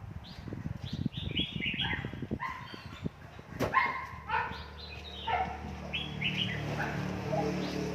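Red-whiskered bulbul singing: a quick run of short, varied notes, with a sharp click about three and a half seconds in.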